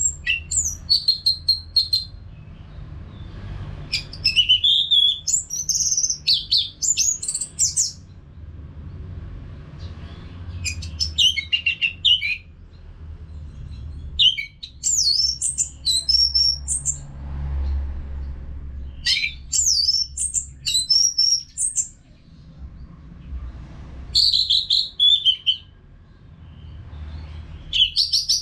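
Orange-headed thrush singing in repeated bouts of quick, varied, high whistled phrases, each bout a couple of seconds long with short pauses between, over a low steady rumble.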